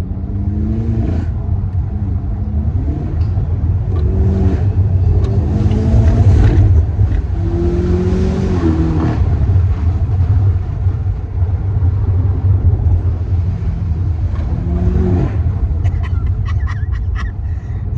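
BMW M8 Competition's twin-turbo V8 under hard acceleration, its engine note climbing in pitch and dropping several times over a deep, steady rumble.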